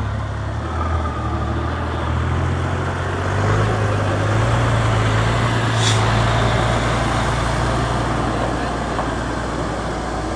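Ten-wheel dump truck's diesel engine running loud and steady, with a short sharp hiss about six seconds in.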